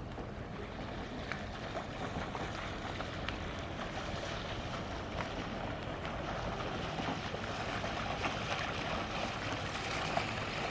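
Steady outdoor wind and water noise, with wind buffeting the microphone and scattered faint clicks and ticks, slowly growing louder.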